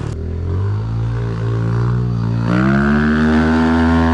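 Small dirt bike engine revving under load on a hill climb. Its pitch jumps sharply about two and a half seconds in and holds high.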